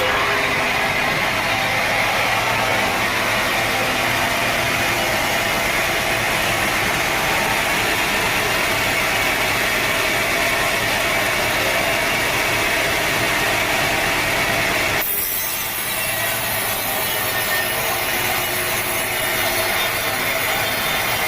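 Sawmill saw running and cutting steadily through a teak log, with an abrupt change in the sound about fifteen seconds in.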